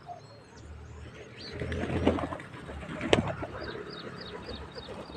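Pigeons cooing in a low, swelling murmur, with many short high chirps from birds and a sharp click about three seconds in.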